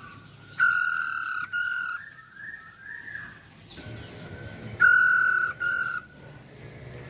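Female masked laughingthrush (Poksay Hongkong) calling: two loud, level calls about four seconds apart, each a long note followed by a short one, with softer sliding chirps in between.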